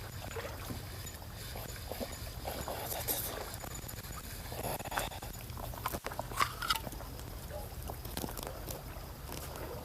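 Scattered clicks, taps and rustling of fishing tackle and a caught hairtail being handled, over a steady low hum; one sharper knock about six seconds in.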